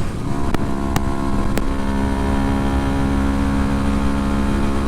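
Kawasaki Ninja 250R's parallel-twin engine running at a steady speed, heard from a helmet-mounted camera mic, with a few sharp clicks in the first two seconds.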